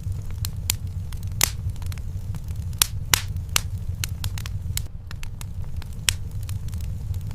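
Wood fire burning in a fireplace: irregular crackles and sharp pops, a handful of them loud, over a steady low rumble.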